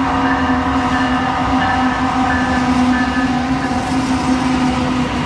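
A train running by with a heavy rumble and a steady held tone over it that fades out about four and a half seconds in.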